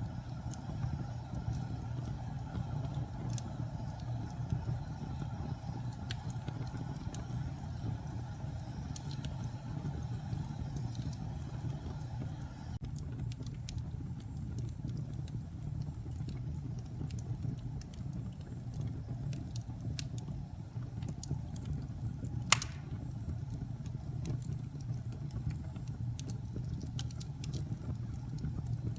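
Wood fire burning in a fireplace: a steady low rumble with scattered small crackles, and one sharp pop about two-thirds of the way through.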